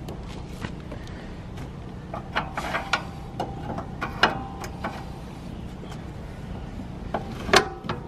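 Scattered knocks and clunks of wooden leveling blocks and camper hardware being handled while a pop-up camper is leveled, a few with a short ring after them; the loudest knock comes near the end.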